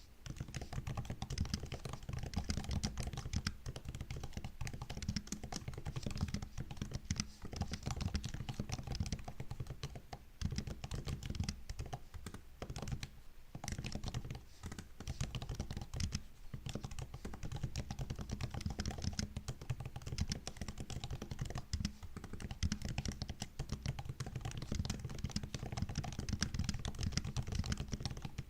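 Continuous typing on a MacBook's built-in keyboard: a dense, rapid run of key clicks, with a brief pause about halfway through.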